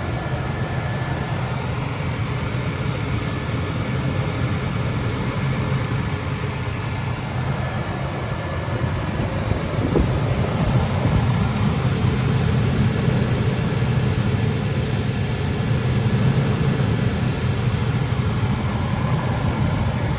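2000 Chevrolet Blazer's 4.3-litre V6 idling steadily after a cold start, a little louder from about halfway through, with a faint click there.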